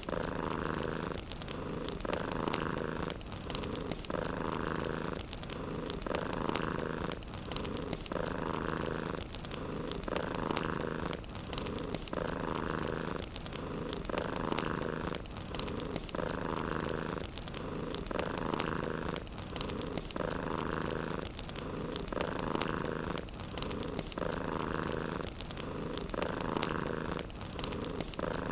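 Domestic cat purring in a steady rhythm, one purr phrase about every two seconds with a short break for each breath. Faint crackling of a fireplace fire runs underneath.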